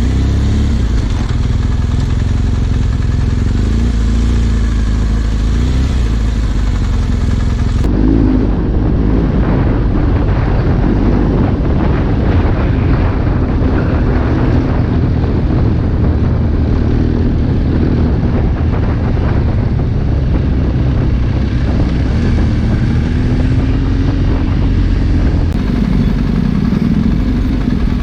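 Trail motorcycle engine running under way on an off-road track, its pitch rising and falling as the throttle changes, over a steady low rumble.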